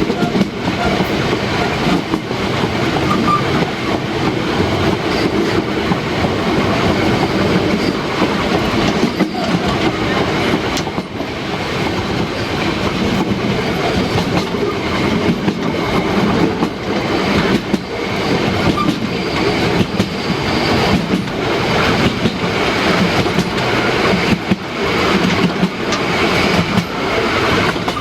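Narrow-gauge steam train running steadily, its wheels clattering over the rail joints.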